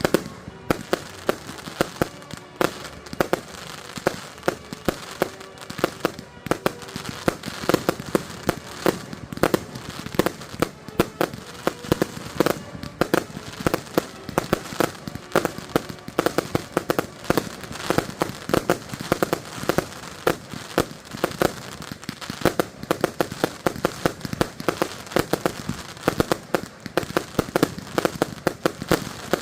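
Fireworks finale: a dense, unbroken run of bangs and crackles, several a second.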